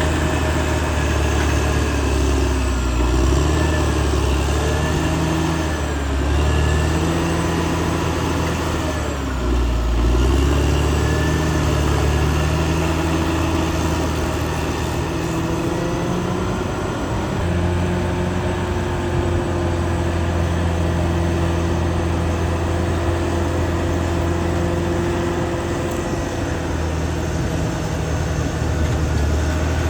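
Caterpillar D6R XL bulldozer's diesel engine running steadily at working revs, its pitch sagging and recovering a couple of times as it takes load.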